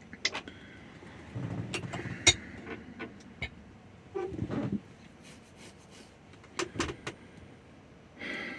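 Scattered clicks, light knocks and rustling of someone handling things and moving about in a vehicle's driver's seat.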